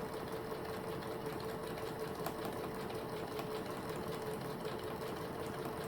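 Kenmore SensorSew 70 sewing machine running steadily through a programmed automatic buttonhole, stitching rapidly over a constant motor hum.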